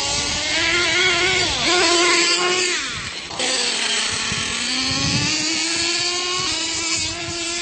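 Radio-controlled monster truck motors running and revving, a high whine whose pitch rises and falls. About three and a half seconds in the sound changes abruptly, then climbs slowly in pitch.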